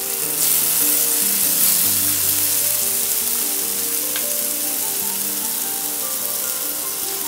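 Bottle gourd rings and beaten egg frying in oil on a hot cast-iron dosa tawa: a steady sizzle that swells about half a second in.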